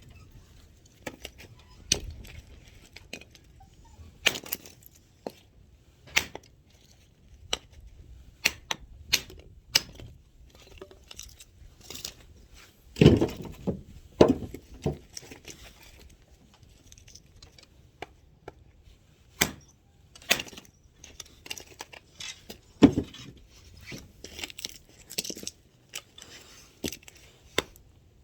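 Firewood being chopped and split with an axe: irregular sharp wooden knocks and clinks as blows land and split pieces fall and knock together. A few heavier thuds come about halfway through and again later.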